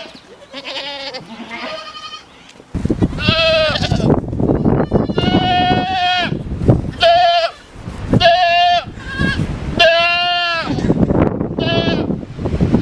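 Several goats bleating, a few faint wavering calls at first, then louder ones about once a second from about three seconds in, with a low rumble underneath.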